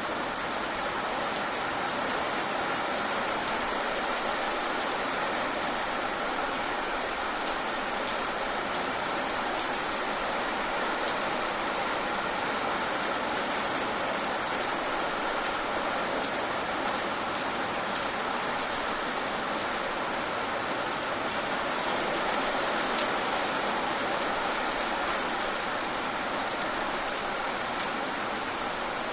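Steady rain falling, a continuous hiss with many fine drop ticks.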